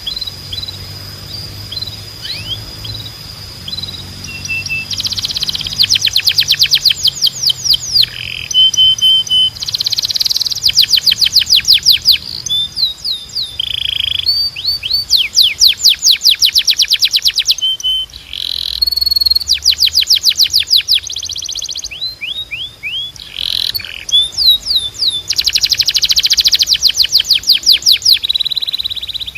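Canary singing a long, continuous song of rapid rolls and trills. It switches to a new phrase every second or two, some very fast and buzzy, others slower repeated whistled notes.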